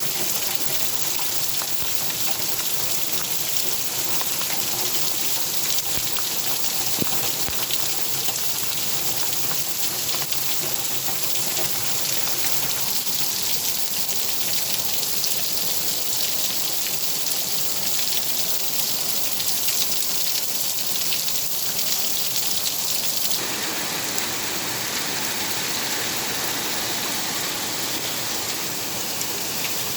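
Steady rain falling, an even hiss with scattered drop impacts. The hiss shifts in tone about three-quarters of the way through.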